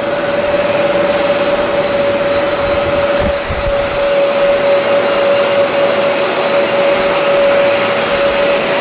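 Jet airliner engines running with a steady roar and a constant whine, with a brief gust of wind buffeting the microphone about three seconds in.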